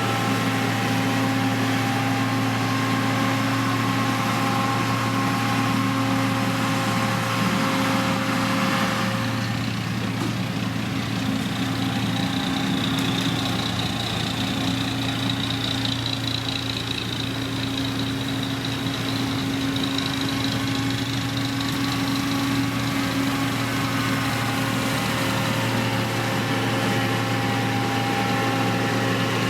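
Diesel engine of a heavy road-construction machine running steadily with an even hum. A faint high whine rises over it a third of the way in and fades out about ten seconds later.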